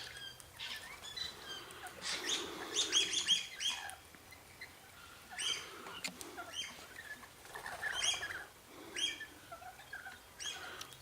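Parrots chirping: clusters of short, sharp calls, densest about two to three seconds in, then returning several more times.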